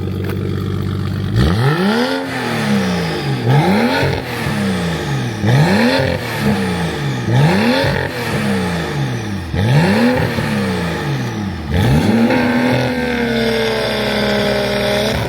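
Car engine idling, then revved hard about six times in a row, each rev rising and falling back, before being held at a steady higher rpm near the end.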